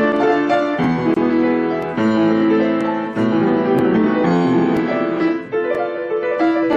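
Piano music: a melody over chords, notes struck and left to ring.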